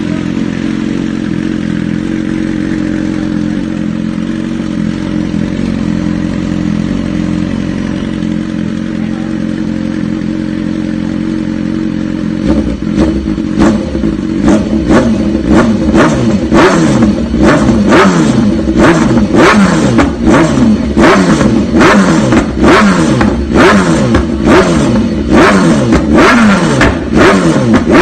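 2010 BMW S1000RR's inline-four engine through an SC-Project S1 exhaust with the catalytic converter removed. It idles steadily at first, then about halfway in it is blipped over and over, roughly once a second, each rev shooting up and falling back.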